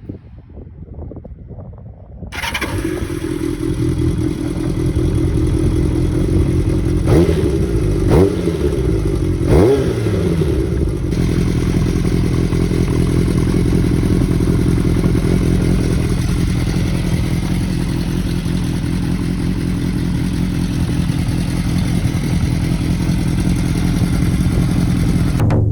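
Kawasaki Zephyr 750RS air-cooled inline-four with a short aftermarket exhaust being started: a couple of seconds of cranking, then it fires and runs loud. Three quick throttle blips about seven to ten seconds in, then it settles into a steady idle.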